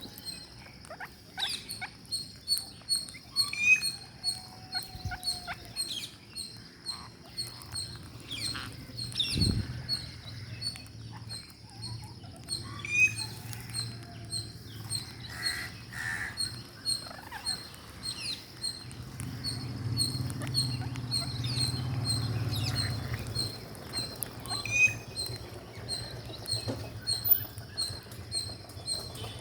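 Ring-necked parakeets eating: a continual run of small clicks and crunches from their beaks working the food, with a few short chirps. A faint regular high pulsing runs underneath.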